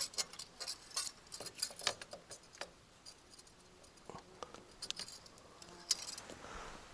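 Light handling noises: scattered small clicks and rustles, many close together for the first two seconds or so, then a few more spread out.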